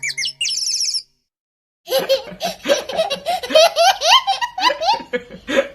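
A short run of high chirps, then after a second's pause a baby laughing for about four seconds in repeated bursts.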